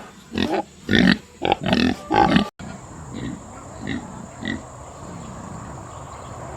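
Pigs grunting in quick, short, loud calls, about two a second, then after a sudden cut a few fainter grunts over a steady hiss.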